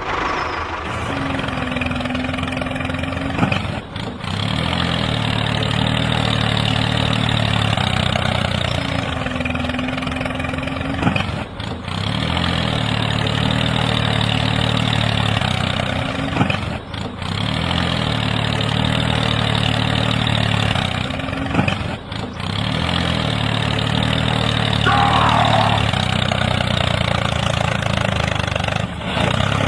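Tractor engine running at idle, the same stretch of engine sound repeating with a short break every five to seven seconds.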